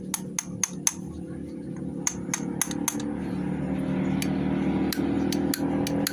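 Quick sharp metallic taps or clicks from hand tools working on motorcycle engine parts, about four a second in short runs. A steady musical hum runs underneath and grows louder.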